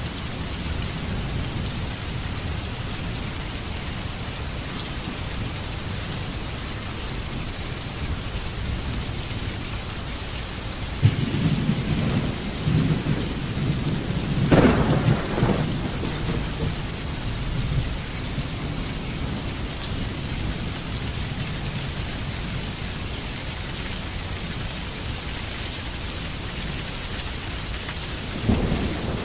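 Heavy rain falling steadily, with a roll of thunder starting about eleven seconds in that builds to a sharp crack a few seconds later and then rumbles away. Another thunder rumble begins near the end.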